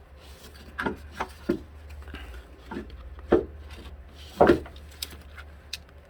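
About half a dozen irregular knocks and clunks from tools and parts being handled in a car's engine bay, with a steady low hum underneath.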